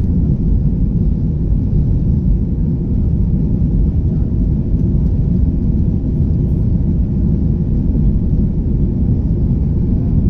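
Boeing 737-800 running under power, its CFM56-7B engines and airflow making a loud, steady low rumble.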